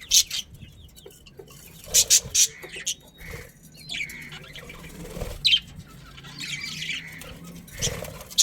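Budgerigars chirping and chattering: short, sharp chirps every second or two over a continuous warbling chatter, with a faint low hum underneath.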